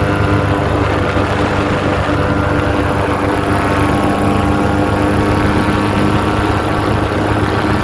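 Powered paraglider's engine and propeller running at a steady pitch in flight, a constant drone.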